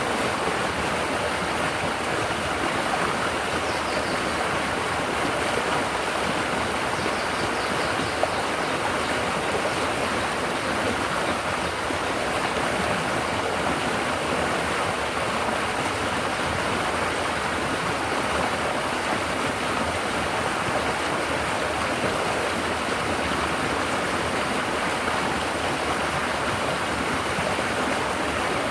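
River water babbling steadily over rocks and against the bank.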